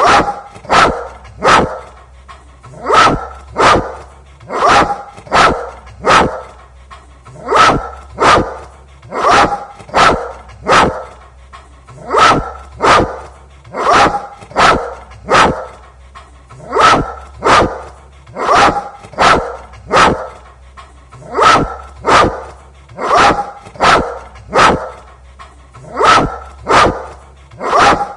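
A dog barking again and again, short sharp barks in quick groups of two or three, repeating in an even rhythm, over a faint low hum.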